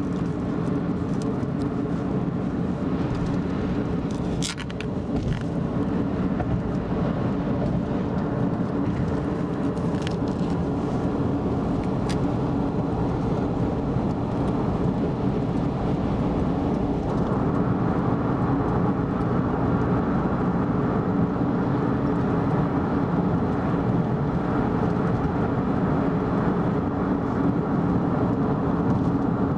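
Car driving at speed on an expressway: steady road and tyre noise with the engine underneath, broken by a few faint clicks early on and a brief dip about four and a half seconds in.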